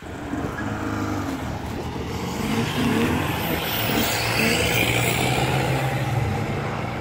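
Several old road cars' engines revving as they race round a banger racing track, the engine pitch climbing about two to three seconds in and the sound at its loudest through the middle.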